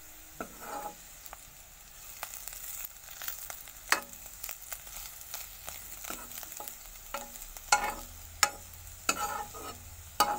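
Chopped bitter gourd (karela) sizzling as it fries in oil in a dark pan, while a steel spatula stirs it, giving repeated sharp scrapes and clinks against the pan.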